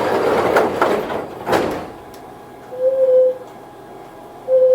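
Toyohashi Railway 1800-series (ex-Tokyu) electric train at a station stop: a rush of noise with a sharp knock during the first two seconds, then two short buzzer tones about a second and a half apart, ahead of the doors closing.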